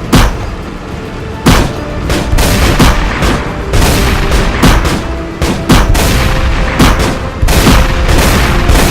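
Movie-style gunfire sound effects, repeated shots at irregular intervals with heavy booms, over an action music score.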